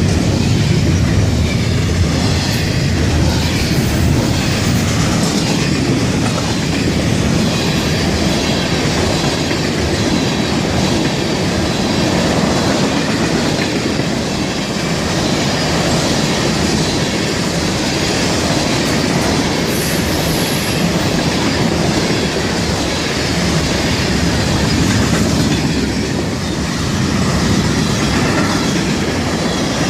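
Florida East Coast Railway freight cars rolling past close by: a steady, loud rumble of steel wheels with clickety-clack over the rail joints and occasional high wheel squeal.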